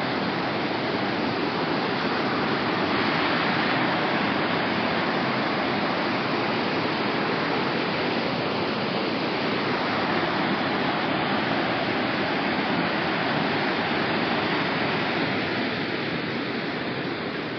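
Steady rush of water pouring down a waterfall, an even roar that eases slightly near the end.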